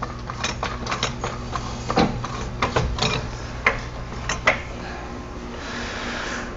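Irregular metallic clicks and clanks of hand tools and sockets being handled, over a steady low hum.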